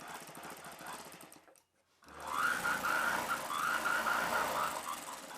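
Sewing machine stitching a seam in two runs: a short, quieter run, then after a brief stop a louder run of about three seconds, its needle strokes following each other rapidly.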